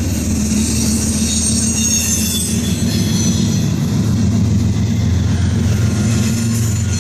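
Norfolk Southern double-stack freight train rolling past: a steady, loud low rumble of wheels on rail, with thin high wheel squeal over the first few seconds.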